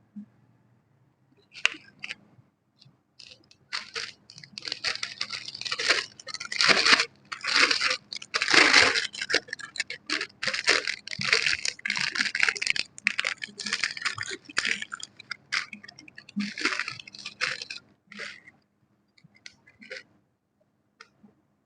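Close, dense crunching and crackling, like something brittle being crushed or crinkled. It starts a few seconds in and thins out to scattered clicks a few seconds before the end.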